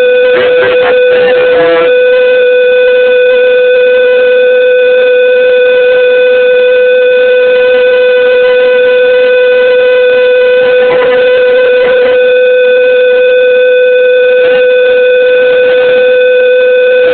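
LPG-fuelled pulse jet engine running steadily: a loud, unbroken buzzing drone at one fixed pitch with many overtones. The steady resonance shows the gas-air mixture is now firing properly.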